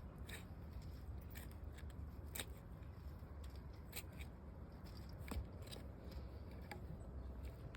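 About eight sharp snips or clicks at irregular intervals, over a steady low rumble.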